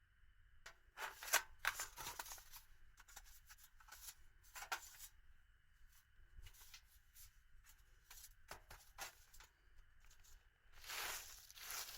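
Irregular rustling and crinkling of gear being handled, in short scattered bursts, with a louder stretch near the end.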